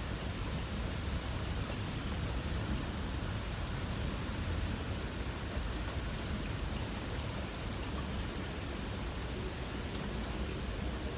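Insects trilling steadily at a high pitch over the soft hiss of light rain, with scattered faint drip ticks and a low steady rumble underneath.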